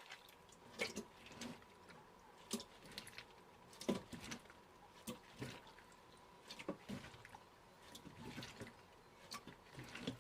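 Faint, scattered wet clicks and squelches, several a second at times, from sea hares being handled, with a faint steady high hum underneath.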